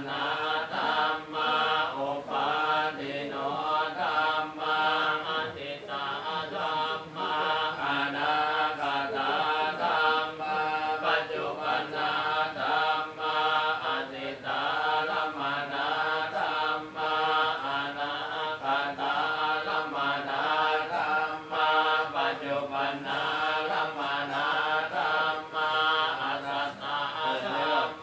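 Buddhist chanting by a group of voices in unison: a continuous, steady recitation with held, gently sliding tones and no pause.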